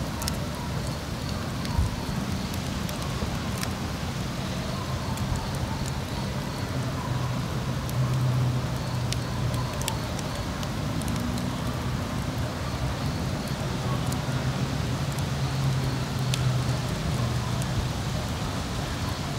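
Wood fire burning in a mesh fire pit: scattered sharp crackles and pops over a steady low hum and hiss.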